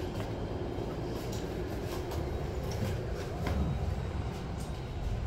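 Newark AirTrain car running on its guideway: a steady low rumble with a few faint clicks.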